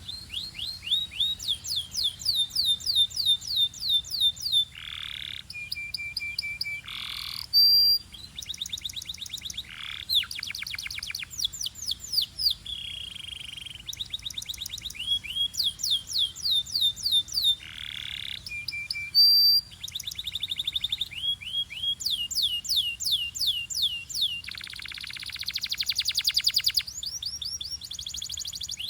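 Belgian canary singing a continuous song of fast trills: runs of quick, repeated downward-sliding notes, broken now and then by short buzzy notes and brief high whistles.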